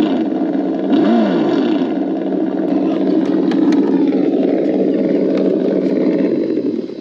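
Kyosho Inferno GT3 AMG GT RC car running at speed, a loud steady drone with a brief rise and fall in pitch about a second in. It cuts out sharply near the end, which the driver takes for the car overheating.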